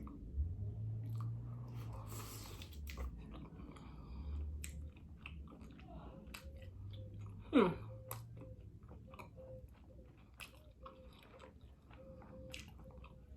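Close-up chewing of seafood-boil food: wet smacking and small clicks of the mouth working food, with a short, loud sound sliding down in pitch about two-thirds of the way through.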